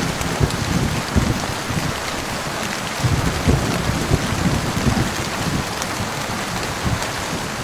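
Steady heavy rain, with low thunder rumbling near the start and again from about three to five seconds in.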